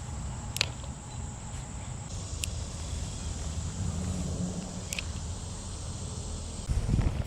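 Steady high-pitched insect buzz over a low outdoor rumble, with three sharp clicks and a brief low thump near the end.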